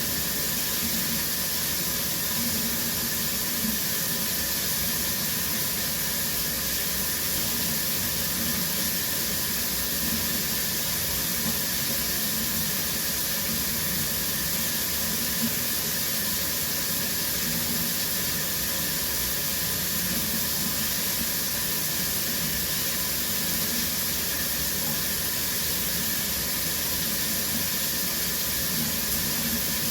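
Shower water running steadily, a continuous hiss of spray falling.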